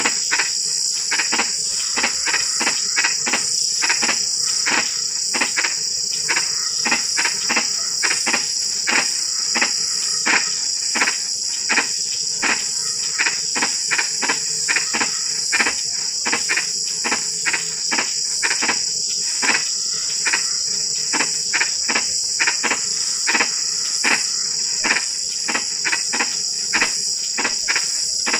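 A chorus of frogs calling after rain, with short croaking pulses repeated irregularly a few times a second, over a steady high-pitched drone.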